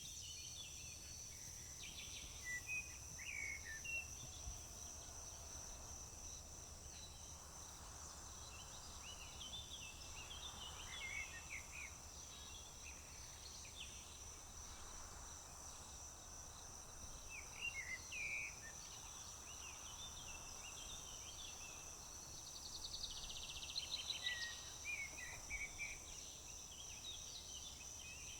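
Crickets trilling steadily and high, with birds singing short phrases at intervals over them, among them a rapid trill about two-thirds of the way in.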